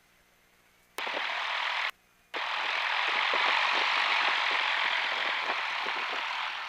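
Aircraft radio static hiss heard over the cockpit intercom, switching on and off abruptly: a burst of just under a second, a short break, then about four seconds more. This is the radio's squelch opening just before a broadcast comes through.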